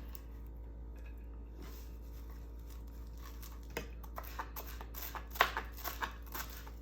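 Coriander leaves being cut: light, irregular sharp taps begin about four seconds in and come several times a second, after a quiet start.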